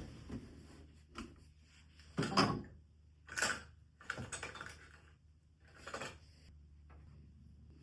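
A handful of short, separate handling sounds at a sewing worktable: light knocks and rustles, the loudest a little over two seconds in.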